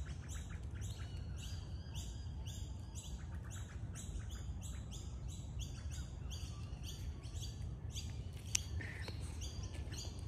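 Birds chirping: a fast, even series of high notes, about three a second, over a low steady rumble.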